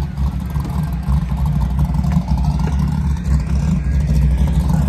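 Camaro drag car's engine running with a loud, steady low rumble at low revs, just after its burnout as it moves up to the line.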